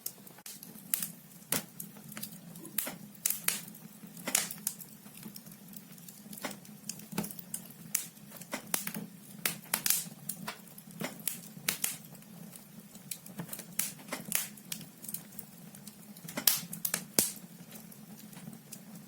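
Wood fire in a fireplace crackling and popping: irregular sharp snaps from burning logs, several a second at times, over a faint steady low hum.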